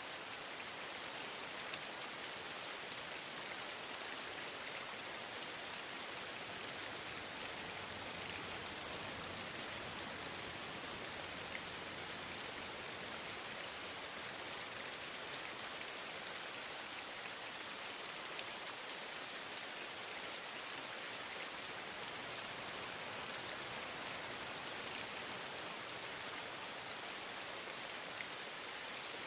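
Steady rain falling: an even hiss with many faint ticks of individual drops scattered through it.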